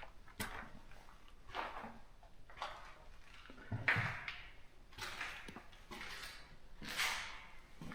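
Footsteps, about one step a second, each a short scuffing crunch with a soft thud, as someone walks over a gritty floor or ground.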